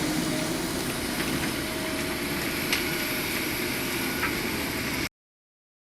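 Engine of roadworks machinery running steadily, with a couple of faint clicks; the sound stops abruptly about five seconds in.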